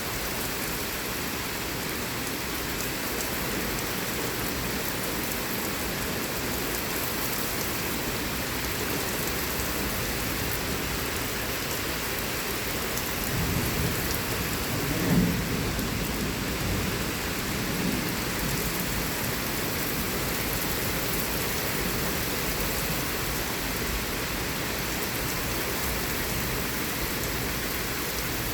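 Heavy thunderstorm rain falling steadily. Midway through, a rumble of thunder swells, peaks sharply, and dies away over a few seconds.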